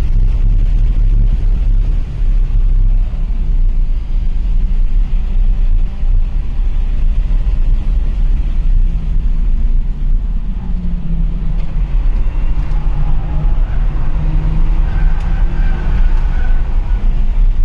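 BMW's engine pulling hard at track speed, heard from inside its cabin over a heavy, steady rumble of road and wind noise. In the second half the engine note comes through more clearly, rising and dropping as the car accelerates and shifts.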